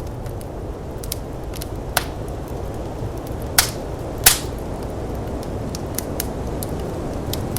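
Wood fire in a firepit crackling: scattered sharp pops and snaps, the loudest three a little way in and around the middle. Under them runs the steady low rumble of snowstorm wind.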